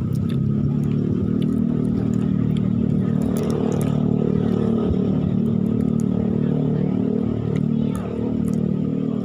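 An engine running steadily close by, at a fairly even pitch.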